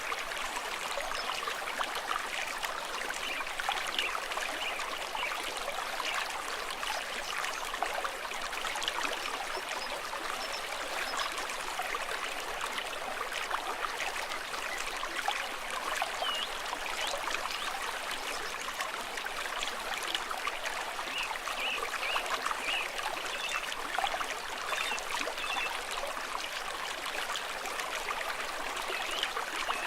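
Small stream trickling and gurgling steadily over stones.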